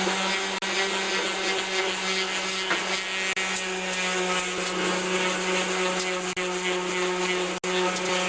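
Electric sander with 220-grit sandpaper running at a steady speed, sanding the old paint on a lawn tractor's mower deck to feather it smooth, a steady motor hum with a rubbing hiss.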